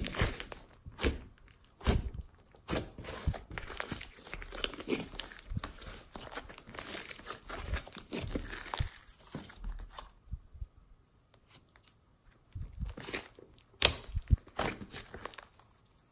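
Slime being squeezed, stretched and pressed by hand, making dense crackling and popping. About ten seconds in it eases off briefly, then comes back as a few sharper, louder pops.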